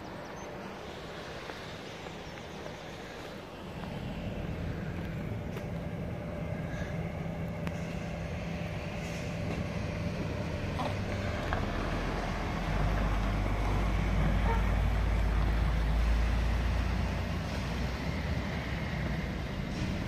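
Low rumble of a passing train, growing louder from about four seconds in and loudest a little past the middle before easing slightly.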